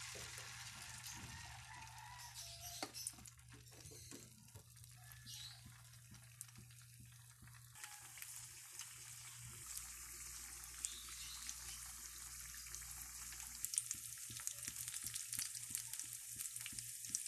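Batter-coated sweet potato sticks sizzling and crackling in hot cooking oil in a pan. The pops and crackles come more often in the second half, over a faint steady low hum.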